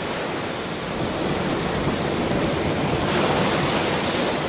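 Ocean surf: a steady wash of breaking waves that swells a little about three seconds in.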